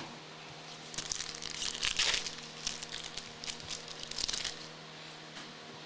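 Trading-card pack wrapper being torn open and crinkled by hand, a run of irregular rustling bursts from about a second in until near the end.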